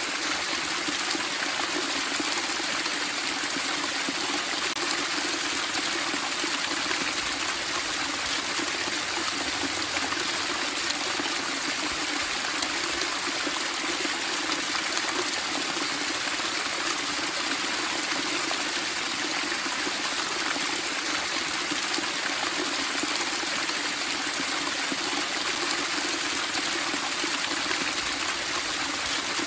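Running water splashing and babbling steadily, an even rush without breaks.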